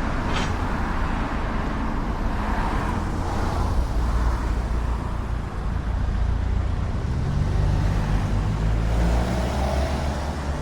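BMW R1300 GS boxer-twin engine running with wind and road noise as the motorcycle rides along; about seven seconds in the engine note climbs as it speeds up.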